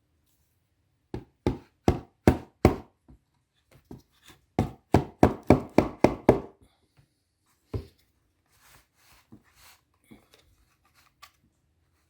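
Sharp taps on the bottom of an Alfa Romeo 147 gear lever, driving its main plastic bush until it seats in the gear lever tower housing. There are five taps about a second in, then a quicker run of about eight, one more single tap, and a few faint clicks near the end.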